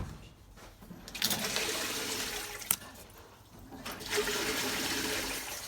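Water rushing in two surges of about a second and a half each, with a sharp click between them.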